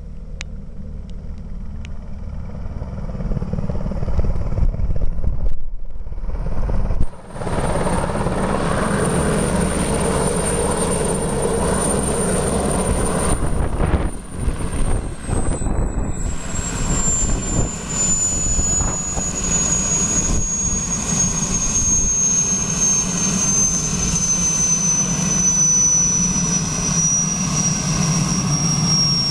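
Helicopter in flight, its engine and rotor running steadily with a thin high whine over them that slowly falls in pitch through the second half.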